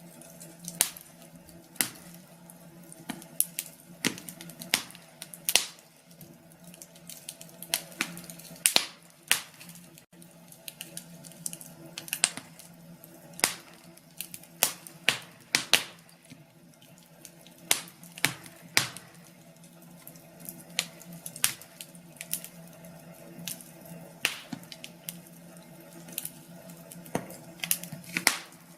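Wood fire in a fireplace crackling: irregular sharp pops and snaps, a few a second and some much louder than the rest, over a faint steady low hum.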